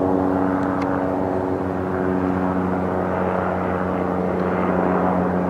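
Aircraft engine droning steadily, a constant hum of several pitches with no change in pitch or loudness.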